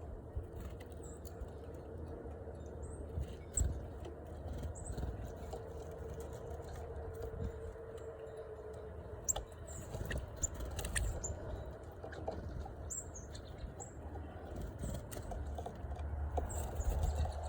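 Small birds giving short, high chirps, with scattered light taps and clicks over a low, steady rumble.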